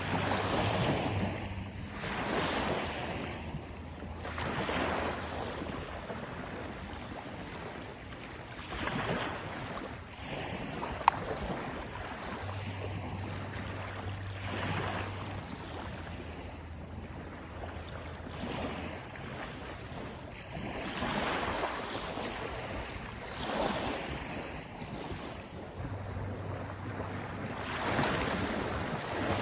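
Sea waves washing in, swelling and falling back every few seconds, with wind on the microphone. A single sharp click about eleven seconds in.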